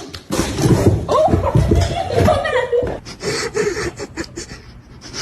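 People laughing, loudest in the first three seconds and then quieter.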